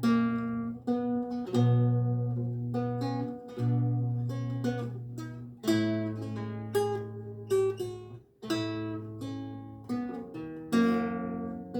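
Renaissance lute played solo: plucked chords and melody notes ringing and decaying over a low bass note restruck about every two seconds, with a brief break about eight seconds in.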